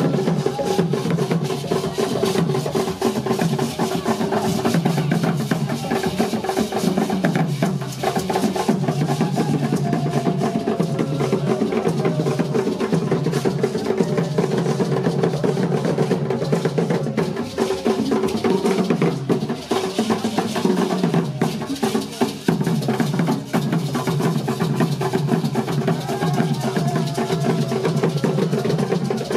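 Drum music with a dense, rapid run of drum strokes over a steady held tone.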